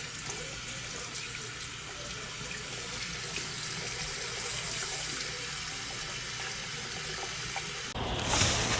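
Steady rushing noise, which changes abruptly to a louder hiss about eight seconds in.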